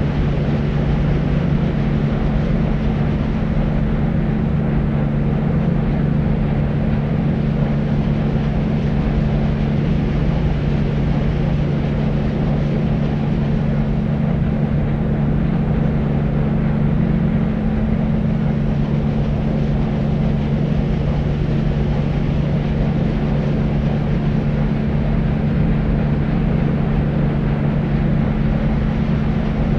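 Steady deep noise for sleep: an unchanging, dense hiss weighted heavily toward the low end, with a steady low hum beneath it and little treble.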